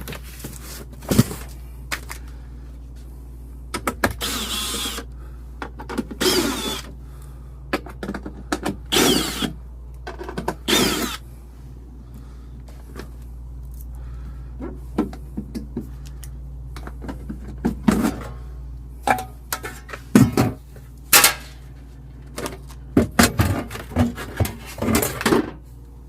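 Irregular knocks, scrapes and short bursts of handling noise as things are moved about by hand, over a steady low hum.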